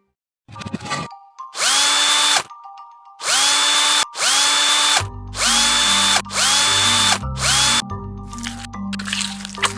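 An electric drill whirring in about six short bursts, each winding up quickly in pitch and then holding before it stops. Low background music comes in about halfway through.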